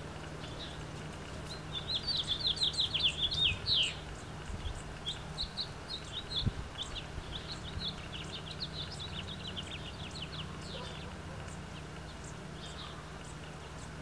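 A songbird singing rapid trilled runs of short falling notes, one burst about two seconds in and a longer, looser run from about five to ten seconds, over a faint steady low hum.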